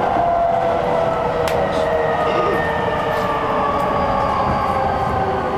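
Running noise inside a Chuo Line electric commuter train slowing into a station, its motor whine falling steadily in pitch. A single sharp click about a second and a half in.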